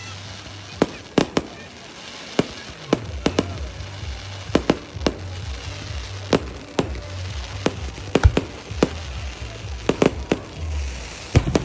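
Fireworks going off: a string of sharp bangs at irregular intervals, roughly two a second, over background music with a deep bass.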